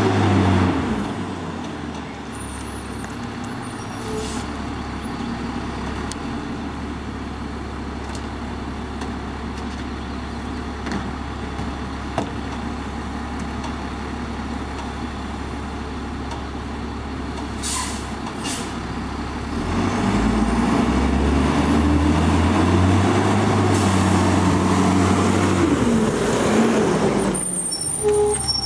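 Front-loader garbage truck's diesel engine running at a low steady idle, then revving up about two-thirds of the way through, with a whine that rises and then falls. There is a short hiss shortly before the revving starts.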